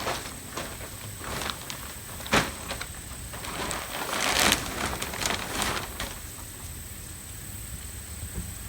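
Plastic vapor-barrier sheeting rustling and crinkling as it is pulled and unfolded, with a sharp snap about two and a half seconds in and a longer, louder spell of crinkling around the middle.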